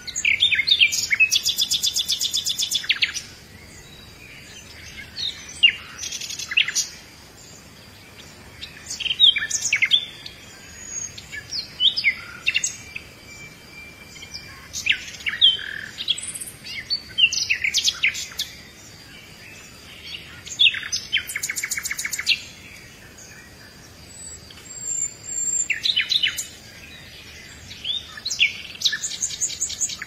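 Wild birds singing: short, high, quick phrases every two or three seconds, some of them fast rattling trills, with quiet gaps between, over a faint steady high tone.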